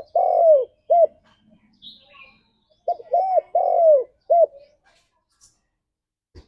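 Spotted dove cooing in its rhythmic phrase of short and drawn-out arched notes. One phrase finishes in the first second, and a full four-note phrase follows about three seconds in. A faint, higher chirp comes in between, about two seconds in.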